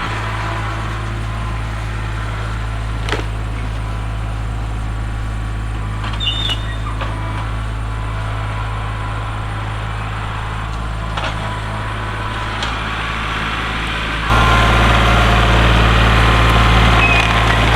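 Kubota tractor's diesel engine running steadily, with a few light knocks. The engine sound jumps louder suddenly about fourteen seconds in.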